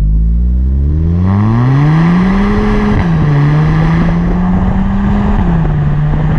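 Volkswagen Golf GTE's turbocharged 1.4-litre four-cylinder petrol engine accelerating hard through its Stage 2 exhaust: a JMTuning downpipe with a 200-cell sports cat, with the stock middle resonator and rear muffler kept. The engine note climbs steadily for about three seconds, drops sharply at an upshift, holds, then drops again at a second upshift near the end.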